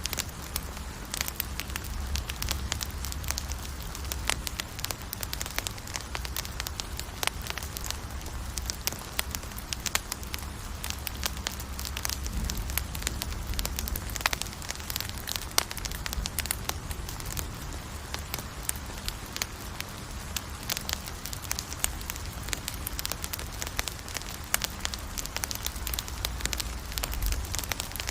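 Campfire burning steadily, wood crackling and popping in many small, irregular snaps over a low rumble of the flames.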